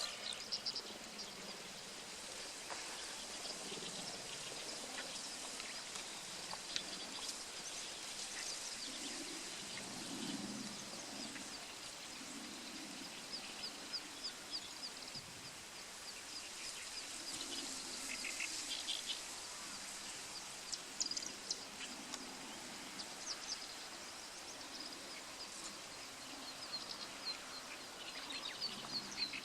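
Black-browed reed warbler singing: runs of short, high notes repeated throughout, over a steady outdoor hiss.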